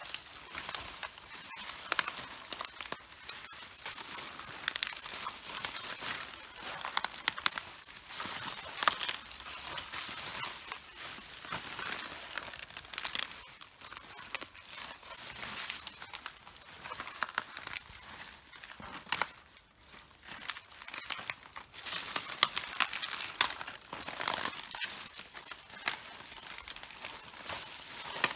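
Red cabbage leaves crunching and crackling underfoot as they are walked on: a continuous run of crisp crackles and snaps, with a brief lull about two-thirds through.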